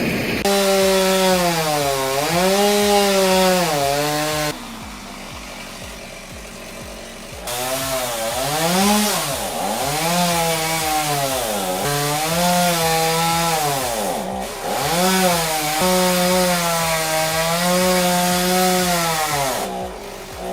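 Chainsaw engine running at high revs, its pitch repeatedly dropping and recovering as the chain bites into wood. It goes quieter for about three seconds a few seconds in, then comes back under load.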